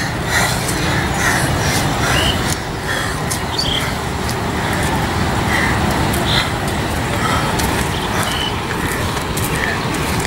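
Steady road-traffic rumble, with short faint calls or voices now and then.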